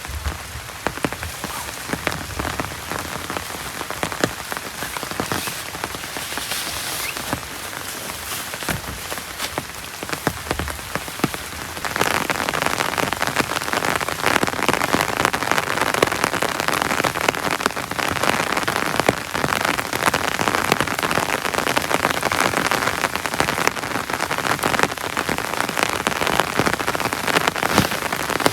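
Heavy rain falling steadily, a dense patter of drops. About twelve seconds in it abruptly grows louder.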